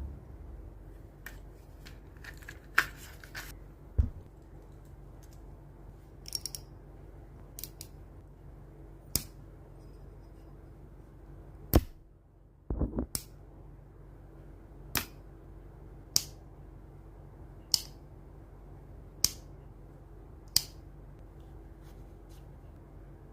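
A series of sharp clicks or snips over a steady low hum. They come irregularly in the first half, with a quick triple click about halfway through, then settle into single clicks about one every second and a half.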